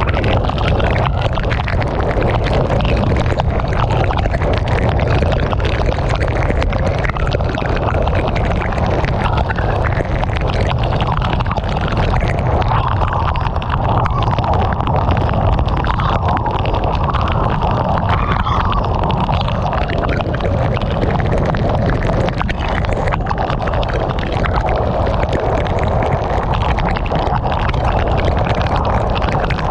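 Heavy rain pelting a moving car, a dense steady patter over a constant low rumble of wind and road noise.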